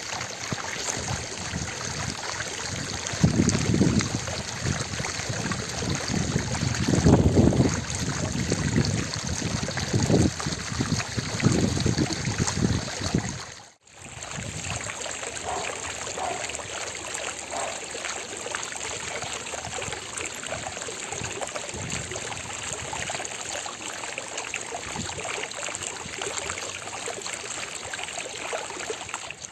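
Fountain water splashing and trickling steadily, with several louder low surges in the first half and a brief dropout about halfway through.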